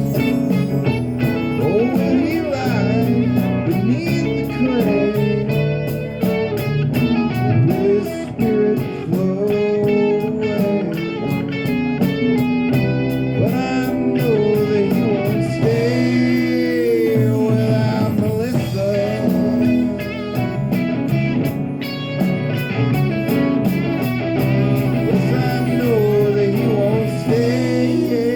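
Live rock band playing an instrumental passage: a bluesy electric guitar lead with bent notes over bass and drums, with a hi-hat keeping a steady beat.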